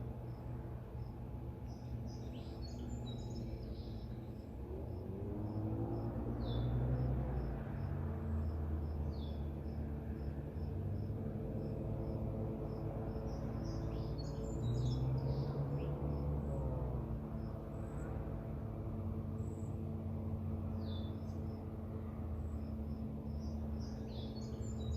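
Evening outdoor ambience: birds giving short calls and chirps, with a faint regular high chirping, over a steady low engine-like hum whose pitch rises and swells twice.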